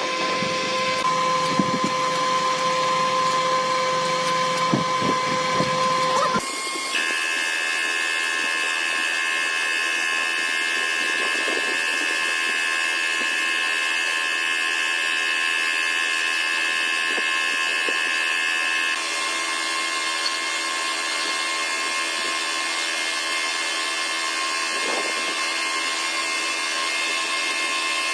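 A small high-speed power tool running steadily with a continuous whine. About six seconds in, the sound changes abruptly to a higher-pitched whine.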